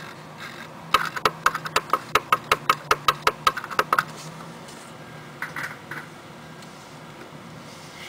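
A quick run of about twenty sharp clicks, six or seven a second, starting about a second in and stopping near the four-second mark, over a faint steady hum.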